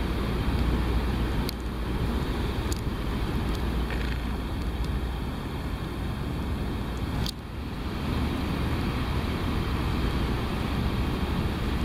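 A steady low rumble with a noisy hiss over it, and a few faint clicks; it dips briefly with a click about seven seconds in.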